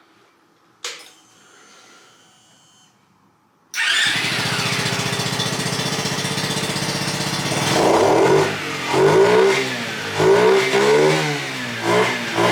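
A click, then about four seconds in a 50cc Skyteam monkey bike engine starts abruptly and idles steadily, and from about eight seconds in it is revved in several quick blips, each rising and falling in pitch. The engine is freshly derestricted with a wider intake manifold, a free-flowing air filter and a remapped ECU, and now revs freely.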